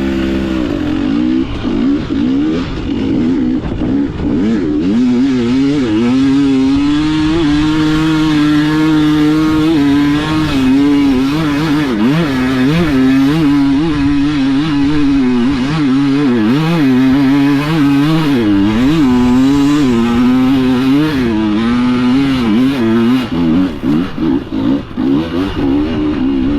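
Off-road vehicle engine running hard under heavy throttle on a hill climb, its pitch rising and falling as the throttle is worked. Near the end the engine note turns choppy as the throttle is blipped on and off.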